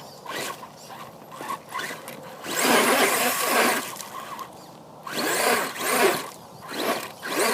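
Radio-controlled crawler truck driving in three short bursts, its electric motor and gearing whirring as the tyres scrabble over rough ground.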